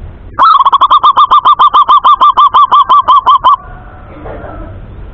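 Male zebra dove (perkutut) calling: a loud, rapid run of about twenty short, even notes, six or seven a second, lasting about three seconds.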